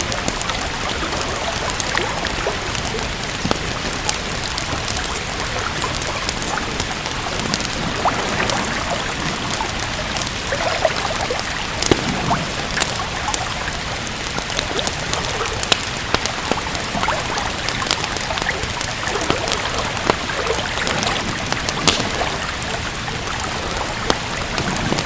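Steady rain with scattered, sharp crackles and pops of a wood fire.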